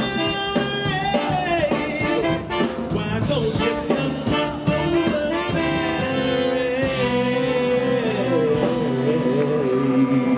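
A brass band with drums plays a song live. For the last few seconds the band holds a long closing chord while one line wavers above it.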